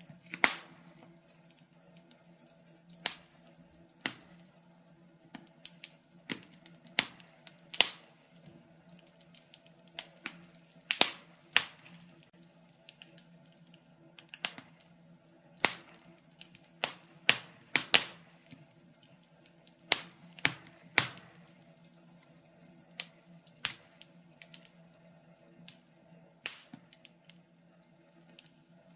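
Wood fire crackling: irregular sharp pops and snaps, some in quick clusters and some seconds apart, over a faint steady low hum.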